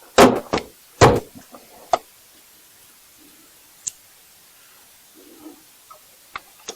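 Several loud knocks and clunks in the first two seconds, one more about four seconds in, then scattered light clicks and taps: hard objects being handled and set down.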